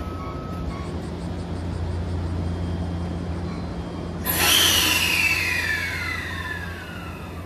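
Steady low hum of the train, then about four seconds in a sudden louder rush of rail noise with several whining tones that slide down in pitch over about three seconds.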